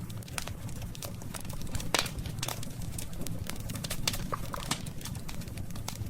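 Burning wood crackling with irregular sharp pops, the loudest about two seconds in, over a low steady rumble of the fire.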